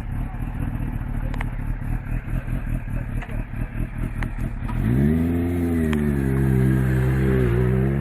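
Superbike exhaust, idling with a rough, pulsing note, then blipped sharply up about five seconds in and held at high revs, dipping briefly near the end.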